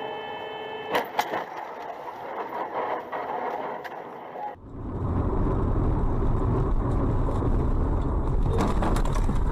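Car dashcam audio of driving on the road. A sharp knock comes about a second in. After a sudden cut a little before halfway, a loud, steady low rumble of road and engine noise follows.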